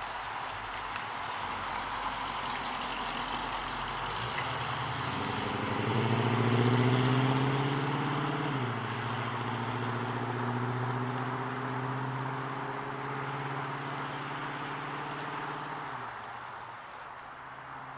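The 1969 Chevrolet Chevelle Malibu's 350 cubic-inch V8, through its new exhaust, accelerating away after a few seconds with a rising engine note. About halfway through the pitch drops as the TH-350 automatic shifts up, then the note climbs slowly again and fades near the end as the car drives off.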